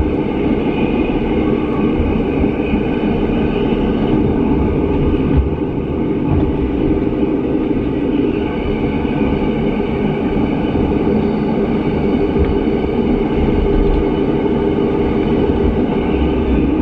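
Rhaetian Railway metre-gauge train running at steady speed, heard from inside the passenger car: a constant rumble of wheels on rail with a steady whine over it.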